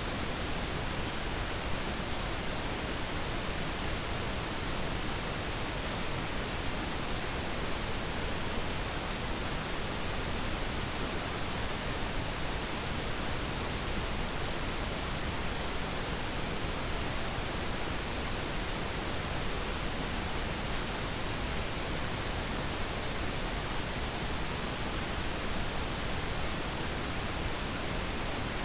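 Steady pink noise: an even, unchanging hiss with no tones or events.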